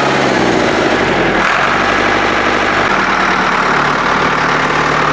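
1970s Ford tractor engine idling steadily just after being started, with its throttle freshly repaired so that it stays where it is set.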